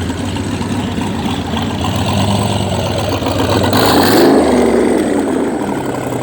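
A car engine running at low revs as a car drives past, its exhaust note swelling to its loudest about four seconds in and then easing off.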